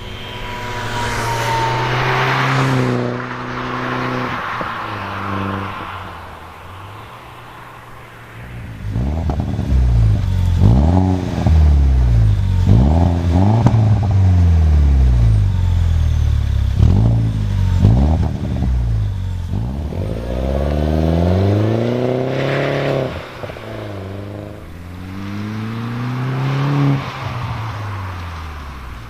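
Mini Cooper S R56's turbocharged 1.6-litre four-cylinder through a Scorpion aftermarket exhaust. The revs fall away at first, then the engine is blipped repeatedly, about half a dozen quick rises and falls, and finishes with one longer rev that climbs and drops back.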